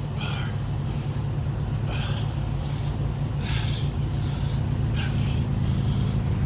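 Diesel semi-truck engine idling with a steady low hum. Short, hard breaths come about every one and a half to two seconds over it.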